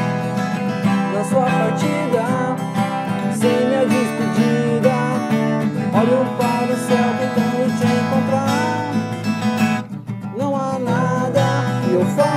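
A pop rock band playing a song live, acoustic guitar strumming under a sliding melody line, with a brief drop about ten seconds in.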